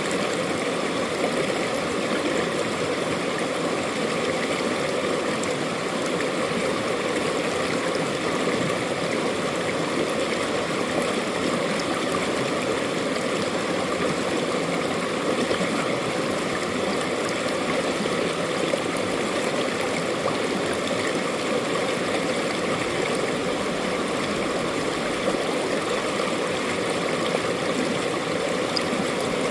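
Mountain valley stream running with a steady, continuous babble of water.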